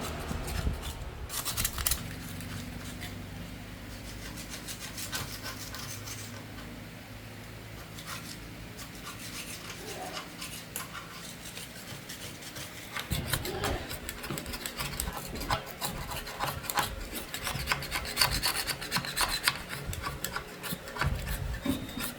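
Quick repeated rasping strokes of an abrasive hand tool rubbing rusty metal, as in filing or scrubbing off rust. The strokes grow louder and busier about halfway through, over a low steady hum in the first half.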